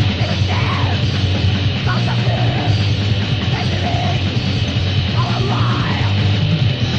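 Loud, dense crust punk recording: distorted guitars and drums with yelled vocals.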